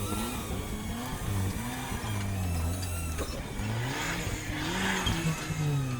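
Off-road vehicle's engine revving, its pitch rising and falling several times.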